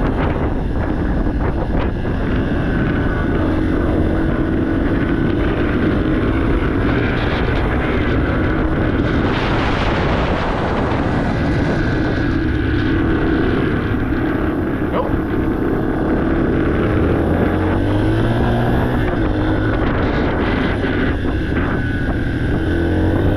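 Yamaha TTR 230 dirt bike's single-cylinder four-stroke engine running while the bike is ridden, its pitch rising and falling with the throttle, with wind buffeting the microphone.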